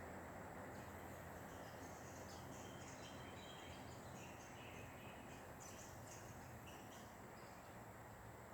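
Faint, scattered high chirps of small birds over a steady low background hiss. The chirps start about a second in and die away near the end.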